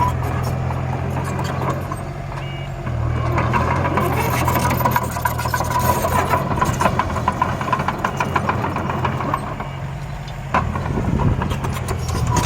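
Engine of a dump truck or bulldozer running steadily, with scattered clicks and rattles over it and two brief dips in loudness.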